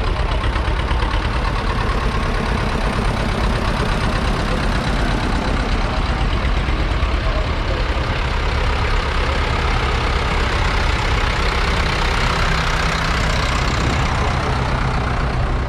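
Vintage tractor engine running steadily at low revs, with an even beat.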